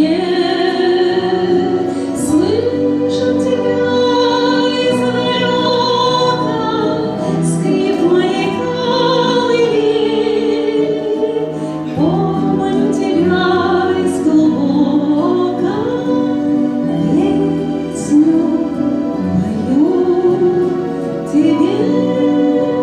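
A woman singing a slow song over instrumental accompaniment, holding long notes with vibrato.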